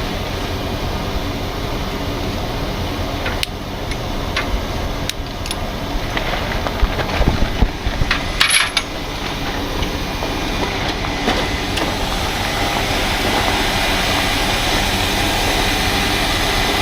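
Heavy truck's diesel engine running steadily, with scattered metallic knocks and clanks and a short hiss about eight seconds in. The engine noise grows slightly louder over the last several seconds.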